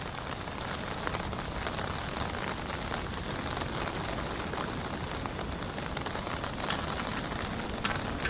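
Heavy rain pattering steadily, with a few sharp clicks near the end.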